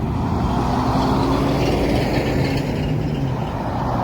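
Car engine running at low revs, a steady low drone.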